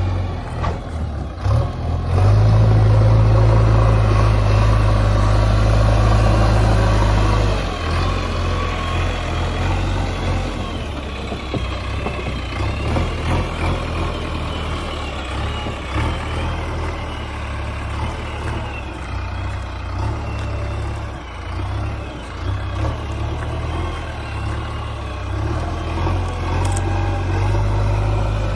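Diesel engine of a JCB ecoXcellence backhoe loader running as the machine moves. It runs louder for about five seconds near the start, then settles to a steadier, slightly quieter run.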